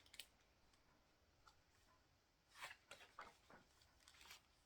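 Near silence, with a few faint paper rustles and handling clicks near the middle and end from the pages of a picture book being turned.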